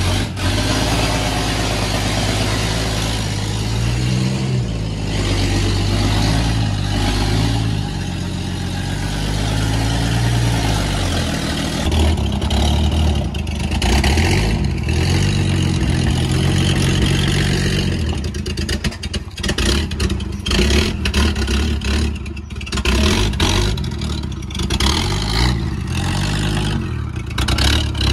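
Car engine running and being revved, its pitch rising and falling twice in the first twelve seconds. From about eighteen seconds in the sound turns choppy, with quick dips in loudness.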